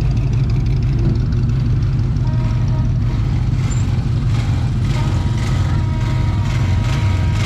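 A vehicle engine running steadily at idle, with a faint steady tone coming in about two seconds in.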